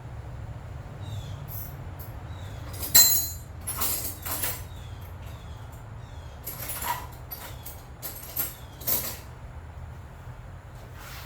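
Several sharp knocks and clatters of tools and metal parts being handled, the loudest about three seconds in, over a steady low hum.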